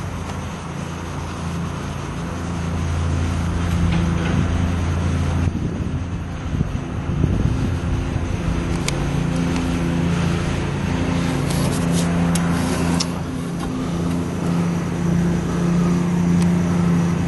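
A steady low motor hum with a few sharp clicks in the middle.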